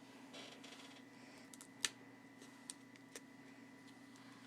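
Faint handling of a trade binder's plastic card pages: a soft rustle early on, then a few sharp light clicks, over a low steady hum.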